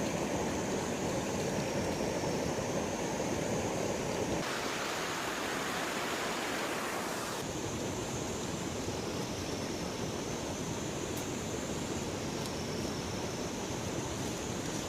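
River water rushing steadily, with a hissier stretch of about three seconds near the middle.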